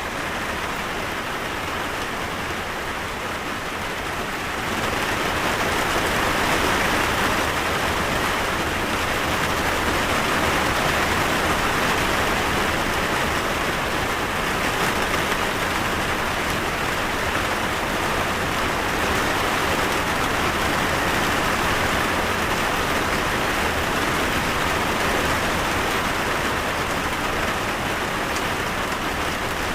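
Steady rain falling, a continuous even hiss of drops on surfaces, which grows heavier about four seconds in and then holds steady.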